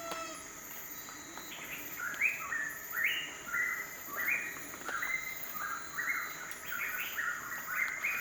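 A bird calling from about a second and a half in: a fast run of short notes, each pair stepping up in pitch, repeated over and over. Behind it runs a steady high-pitched insect drone.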